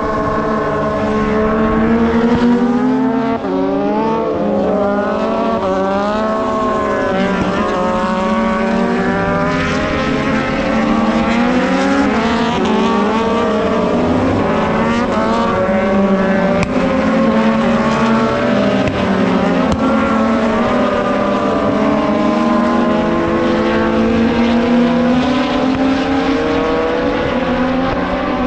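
Several MotoGP race motorcycles' high-revving four-cylinder engines running together, their pitches repeatedly rising and dropping with throttle and gear changes.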